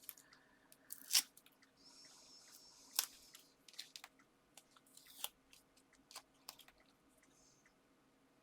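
Foam adhesive pads and card being handled at a craft table: scattered light clicks and taps, two sharper ones about a second in and about three seconds in, with a short papery rustle between them as pads are peeled and pressed on.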